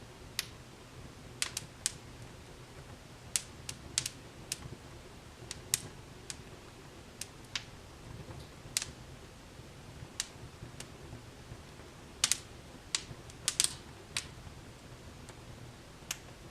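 Fire in a fireplace crackling: sharp, irregular pops and snaps, a few clustered together, over a low steady rumble.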